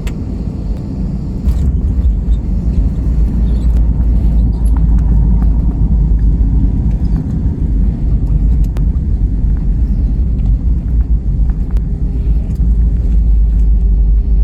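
Airbus A320 heard from inside the passenger cabin on landing: a deep rumble jumps up about a second and a half in as the wheels meet the runway, then carries on as steady rollout rumble.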